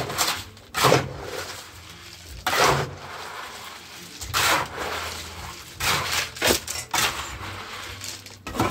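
Gravel and tile-adhesive mortar being mixed with a tool, a gritty scraping stroke about every one to two seconds.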